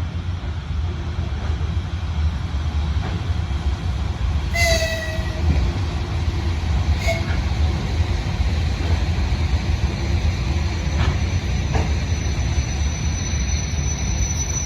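Passenger train running past with a steady heavy rumble and occasional knocks of wheels over rail joints. Two brief high-pitched tones sound about four and a half seconds in and again shortly after, and a thin high wheel squeal begins near the end.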